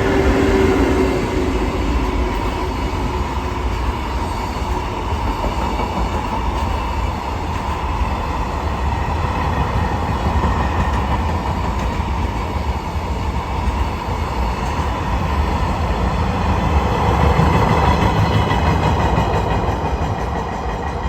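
Freight train rolling through the station, its wagons' wheels rumbling and clattering steadily over the rails, swelling a little louder near the end.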